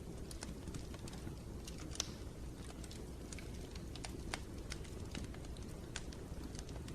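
Wood fire in a fireplace crackling: irregular sharp pops and snaps over a low steady rumble of the flames, the loudest pop about two seconds in.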